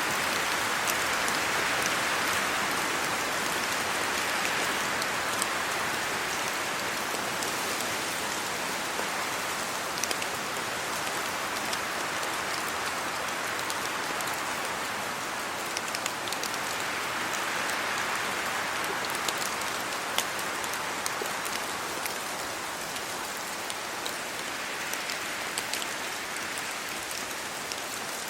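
Steady rain falling, with many sharp ticks of single drops hitting nearby surfaces. A hiss of wind in wet tree leaves slowly swells and fades, strongest near the start and again a little past the middle.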